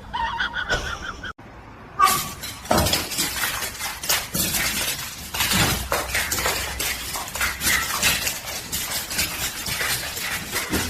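A busy, continuous jumble of clattering and knocking, many sharp hits in quick succession, after a short pitched sound at the start.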